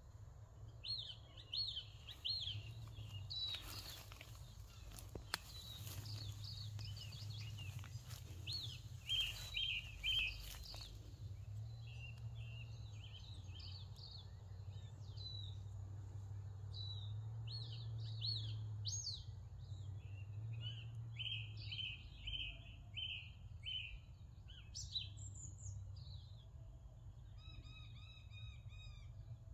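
Small birds chirping and twittering in quick runs of short notes, over a steady low background rumble. A few brief rustles or bumps come through in the first half.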